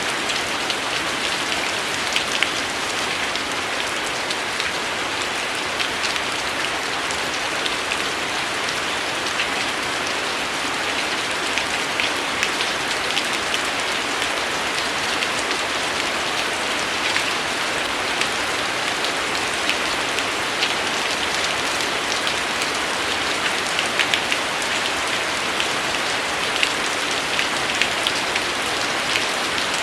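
Steady rainfall: an even, unbroken hiss of rain with individual drops standing out now and then.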